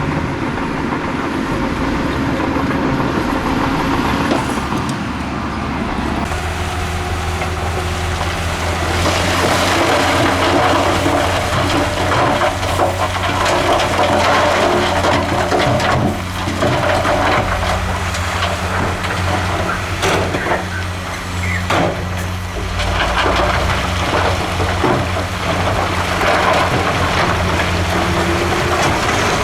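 Heavy diesel earthmoving machinery working: a deep engine drone that settles into a steady note about six seconds in, with scattered metallic clanks and knocks.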